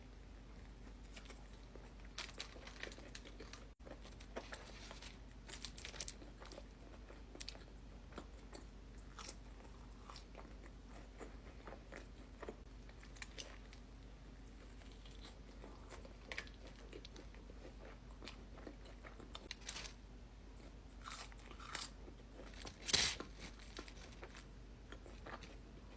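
Close-miked eating: a person biting into and chewing crunchy food, with scattered crisp crunches and one louder crunch near the end.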